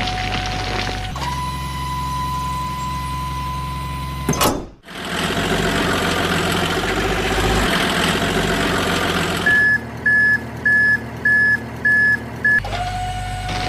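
Electronic truck sound effects switching abruptly from one to the next: a steady tone, a sharp rising sweep, a few seconds of engine noise, then a run of about six reversing beeps, before the steady tone returns.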